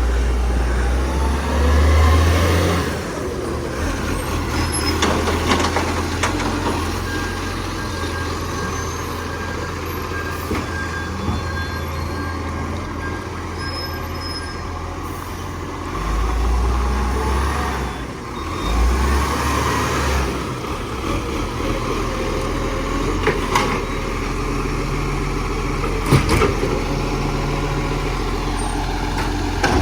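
Garbage truck's diesel engine running with a heavy low rumble, swelling louder about two seconds in and twice more past the middle, with a few sharp clicks near the end.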